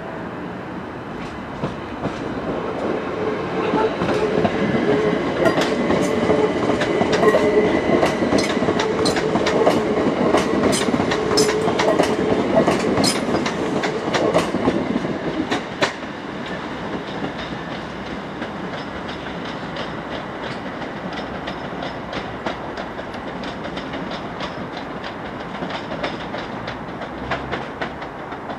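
A train running past on the rails, its wheels clicking rapidly over rail joints, loudest between about four and sixteen seconds in; after that a steadier, quieter rumble of the train goes on.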